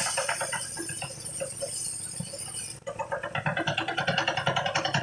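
Rice thresher (perontok padi) running, with a fast, even rattle and a high hiss; it dips briefly about three seconds in, then picks up again.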